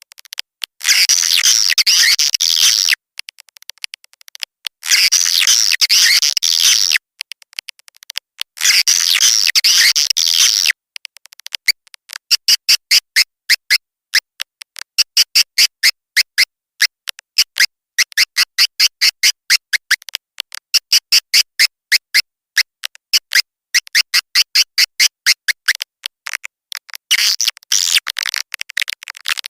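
Edible-nest swiftlet lure call: bursts of high, dense twittering about two seconds long, then a long run of quick, regular clicking chirps, about three a second, and twittering again near the end.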